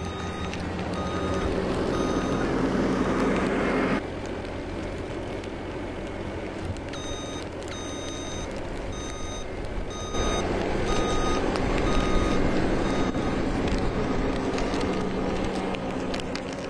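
Reversing alarm of a snow-clearing vehicle beeping at a steady rate, about once a second, over its engine running. The background noise drops sharply about four seconds in and returns about ten seconds in, while the beeping keeps on.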